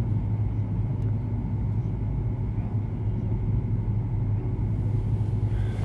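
Steady low hum and rumble of the mosque's sound system and room noise, with no voice, and a few faint clicks.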